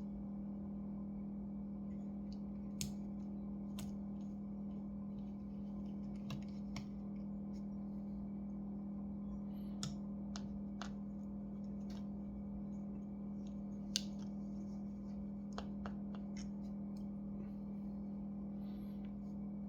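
Small sharp clicks and taps, about ten spread irregularly, from tools and small parts being handled while a laptop is taken apart. A steady low hum runs underneath.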